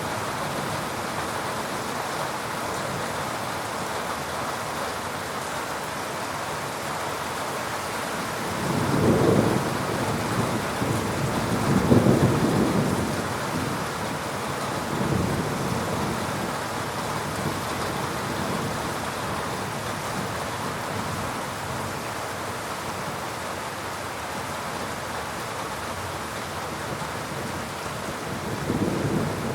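Steady heavy rain falling, with rolls of thunder rumbling about nine and twelve seconds in, a fainter one a few seconds later, and another starting near the end.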